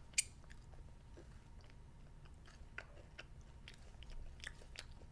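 A child chewing candy chocolate rocks, with faint crunches and small clicks scattered throughout.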